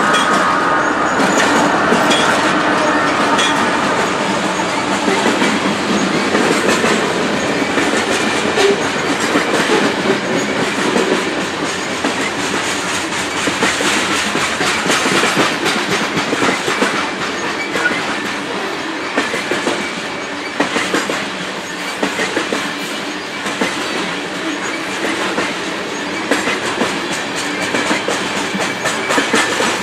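Loaded coal train cars rolling past at close range, their wheels clicking over the rail joints in a steady clatter.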